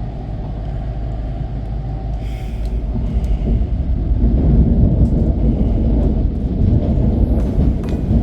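Shinkansen running at speed, heard from inside the car: a steady low rumble that grows louder about four seconds in.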